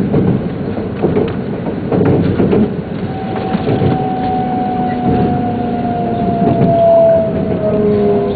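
Shinkansen running noise heard from inside the passenger car: a steady rumble with a few clicks from the wheels in the first half. From about three seconds in, a whine slowly falls in pitch as the train slows.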